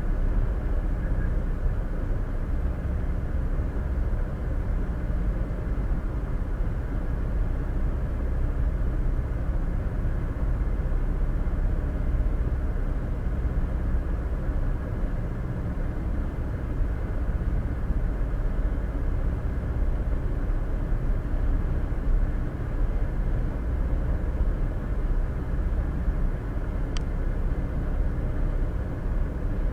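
Steady road and tyre noise of a car cruising at highway speed, heard from inside the cabin through a dash cam's microphone, with one faint short tick near the end.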